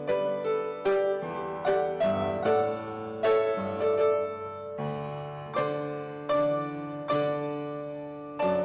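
Piano playing a slow, steady instrumental piece, with struck notes and chords that ring and fade.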